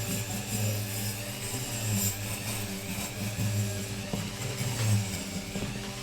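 Motor-driven rotary wire brush running against a bare diecast metal toy body, its hum swelling and dipping unevenly as the casting is pressed against the wheel.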